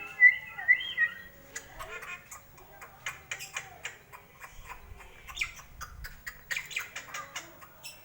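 Sulawesi drongo calling: a quick series of whistled notes, then runs of short, harsh squawks and rasping chatter.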